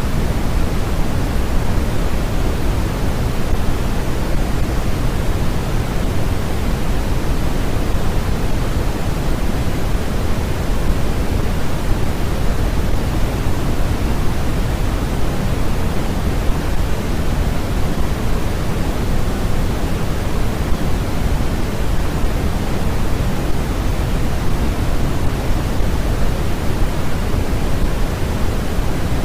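Steady synthetic noise from a sleep noise track: an even, unchanging hiss with its weight in the low end, thinning toward the top.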